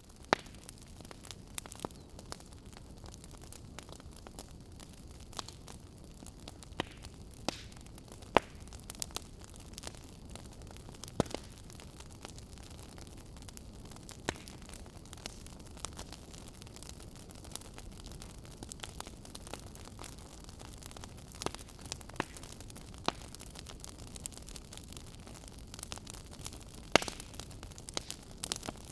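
Wood fire crackling in a fireplace: a soft steady hiss with irregular sharp pops and snaps, a few much louder than the rest.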